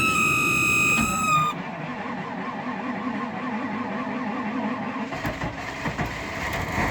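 1997 Chevy Suburban's 5.7 L Vortec V8 cranking over slowly with a rhythmic, laboured starter churn, hesitating in the −25 °F cold after sitting all night, then catching and starting to run about five seconds in. A steady high tone sounds during the first second and a half.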